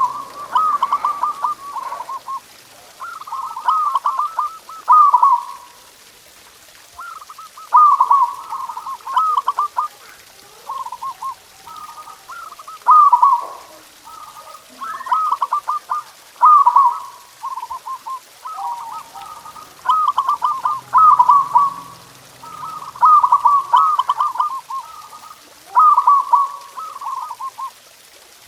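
Zebra doves (perkutut) cooing: rolling, trilled coo phrases of one to two seconds each, repeated about a dozen times with short pauses between them.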